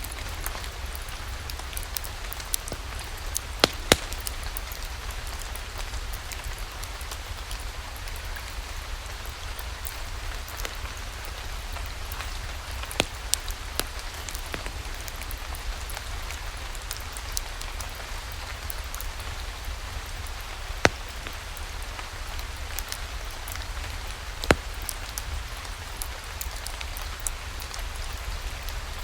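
Steady rain falling, mixed with a low rumble and a few sharp crackling pops of a wood fire in a fireplace: a close pair about four seconds in, then single pops near the middle and later on.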